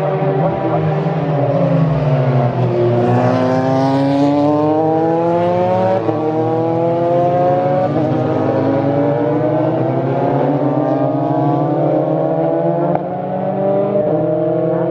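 Several formula race car engines accelerating, their pitch repeatedly climbing and dropping back at upshifts, overlapping with one another over a steady lower engine drone.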